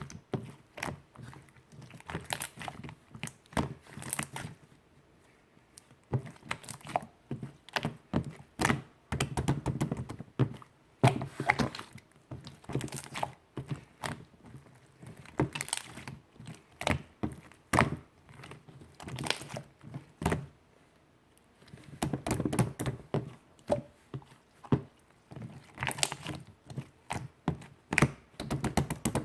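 Clear slime being pressed, folded and poked, giving irregular clusters of sticky clicks, squelches and small bubble pops with short pauses between.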